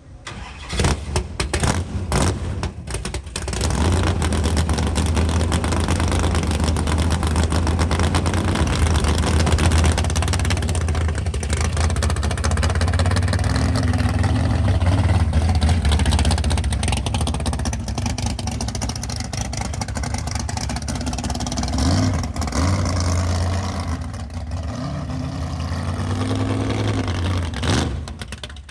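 Custom 1966 Ford Mustang fastback driving away, its engine running with a low, steady exhaust note and a couple of short revs about two-thirds of the way through.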